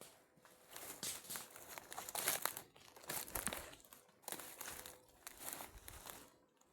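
Dry autumn leaves rustling and crunching in irregular crackles, which stop shortly before the end.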